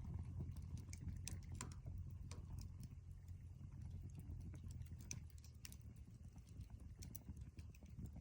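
Wood campfire crackling: scattered, irregular sharp pops and snaps over a low steady rumble.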